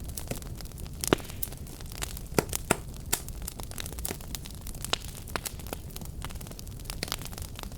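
Wood fire crackling in a fireplace: irregular sharp pops and snaps, several a second, over a steady low rumble of burning, with the strongest pops about a second in and near two and a half seconds.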